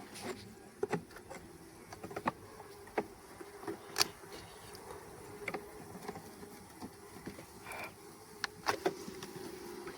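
Honey bees buzzing steadily around an open hive, with irregular sharp clicks and knocks throughout. The loudest knock comes about four seconds in, and a quick cluster of them comes near the end.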